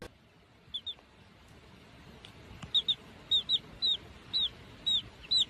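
A bird's short, high chirps, some in quick pairs: a pair about a second in, then a steady run of chirps about twice a second.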